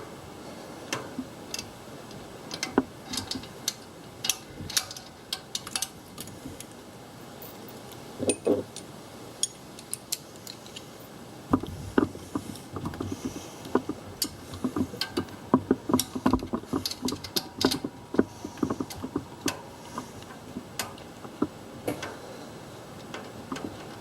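Hand tools on metal: a socket wrench clicking in short, irregular runs and small metal clinks, busiest in the middle of the stretch, as a socket is worked on a stubborn nut in an engine bay.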